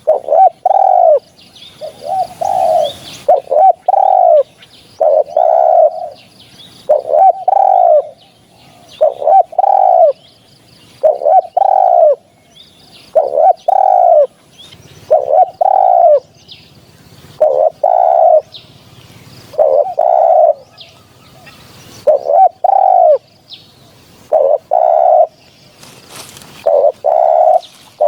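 Spotted dove cooing over and over: a phrase of a few low coos repeated about every one and a half to two seconds. Faint chirps of small birds sound behind it.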